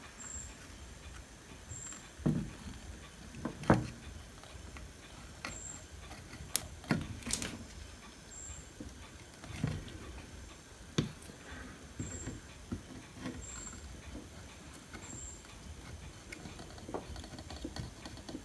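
Scattered light clicks, taps and scrapes of hand tools and parts being handled on a repair bench, as a spot on a home theater power supply board is cleaned before a part is fitted. The taps come irregularly, a few seconds apart.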